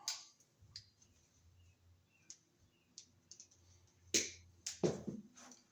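Light scattered clicks of hand tools and copper wire being handled, then a few sharp snaps a little past four seconds in, as solid electrical wire is cut and stripped with wire strippers to make a pigtail.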